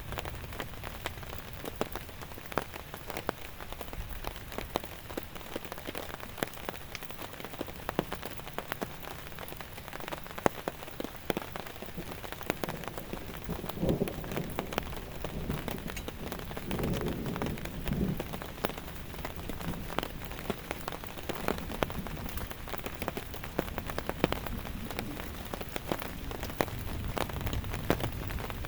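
Steady heavy rain, with many individual drops striking close by as sharp pattering clicks. A few low thuds come about halfway through.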